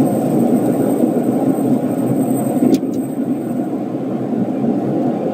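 Skoda Octavia A5 driving at speed, with steady road and tyre noise, and a faint high squeak from the rear right wheel, the creak the owner hears at about 100 km/h. The squeak stops at a short click a little past halfway through.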